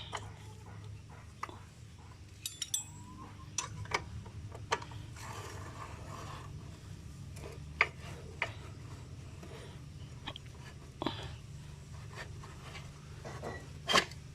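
Irregular metallic clinks and knocks of hand tools and parts being handled while a motorcycle's rear wheel is taken apart, over a steady low hum; the sharpest knocks come about eight seconds in and near the end.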